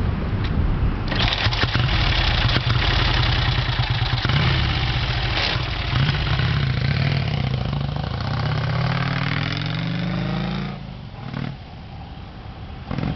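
1948 Vincent Rapide's 998 cc V-twin engine running and being revved, its pitch climbing steadily over several seconds. About ten and a half seconds in it drops off sharply and goes much quieter.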